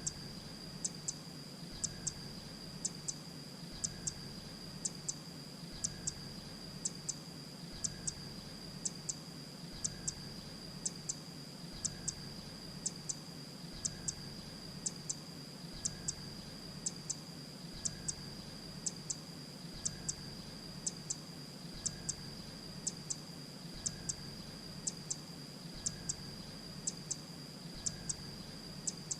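Grey-breasted prinia calling: short, high double chips repeated about twice a second in an even, unbroken series, over a steady high thin tone.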